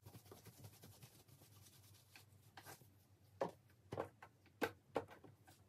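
Faint cloth rustling and rubbing as a sewn fabric tube is worked inside out by hand, with several short, sharper rustles in the second half.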